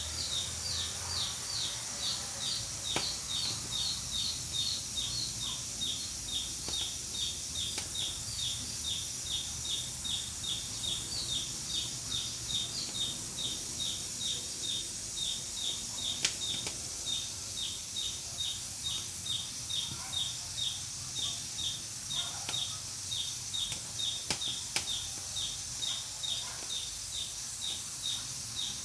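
Pressure cooker on a wood-fired stove hissing steadily, with a short chirping whistle that repeats evenly about twice a second as the pressure cooker vents. A few sharp crackles come from the wood fire.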